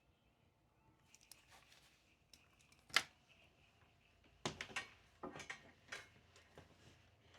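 Small desk handling sounds from studying with paper flashcards: a sharp click about three seconds in, then a run of quick clicks and rustles.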